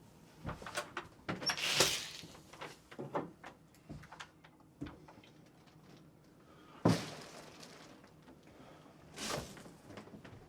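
Scattered knocks and clunks in a small room, with a sharper impact about seven seconds in and a noisy clatter near the start and end.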